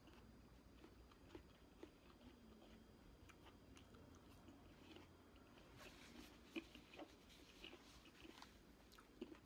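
A person chewing and biting fresh fruit, faint. Scattered small crunches and clicks come more often in the second half.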